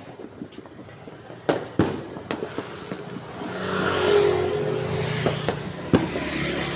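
Scattered sharp firework bangs. From about three seconds in, a motor vehicle's engine grows louder and passes close by, running steadily to near the end.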